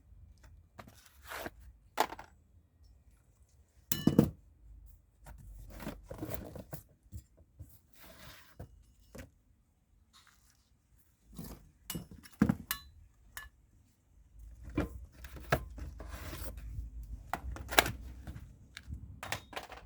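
Steel jack stand parts and their packaging being handled: scattered metal knocks and clinks among rustling and scraping, with a few sharper knocks.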